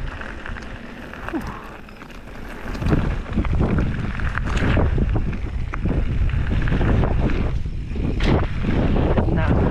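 Wind buffeting the microphone as a mountain bike rides at speed down a dirt jump trail, with knocks and rattles from the bike. The rumble grows loud about three seconds in as the bike picks up speed.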